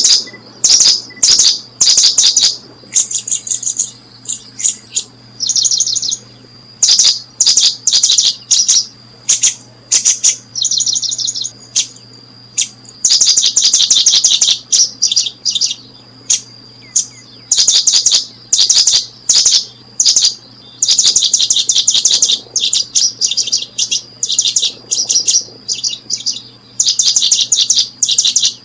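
Small birds chirping in quick, irregular bursts of high, buzzy notes, each burst lasting a fraction of a second to about two seconds. A thin steady high tone runs underneath.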